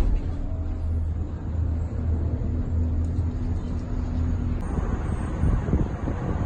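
Steady low hum and rumble of a Disney Skyliner gondola cabin in motion along its cable, heard from inside the cabin. A little over four seconds in, the steady tone drops out and a rougher, uneven rumble takes over.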